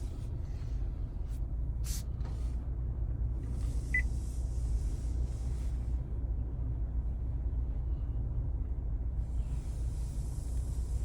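Car running at low speed, a steady low rumble, with a short beep about four seconds in and a sharp click near two seconds.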